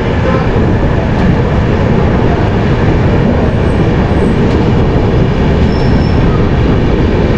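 Rewa Express passenger train running at speed, heard from aboard a coach: a loud, steady rumble of wheels on the track and running noise.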